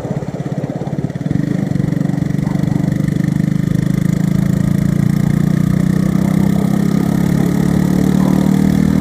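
Motorcycle engine running steadily with an even pulse, growing a little louder about a second in and then holding steady.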